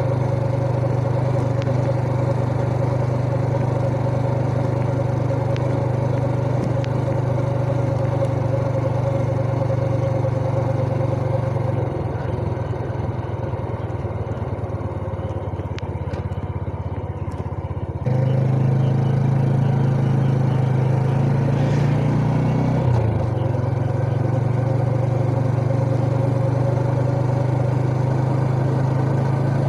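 Yamaha Jupiter Z underbone motorcycle's small single-cylinder four-stroke engine, heard from the rider's chest, running steadily on the road. About twelve seconds in the engine eases off for several seconds, then opens up again. Soon after, it rises briefly in pitch and drops back suddenly.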